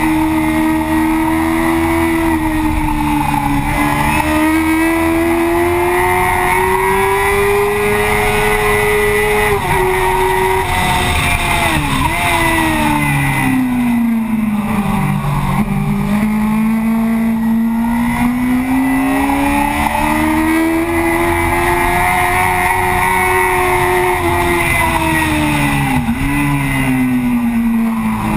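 Yamaha FZ6's inline-four engine pulling hard on track, picked up by a camera on its fuel tank. The pitch climbs for several seconds, falls away into a corner and climbs again, with short quick dips at gear changes, over a rush of wind noise.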